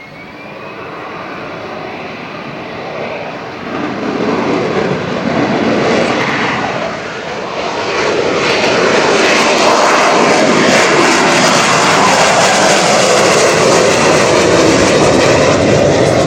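AV-8B Harrier II's Rolls-Royce Pegasus jet engine at high power during a short takeoff. The noise builds over the first eight seconds or so, then stays loud and steady.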